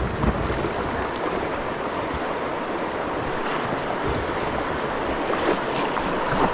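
Rushing water of a river rapid around a kayak, with a few dull low thumps.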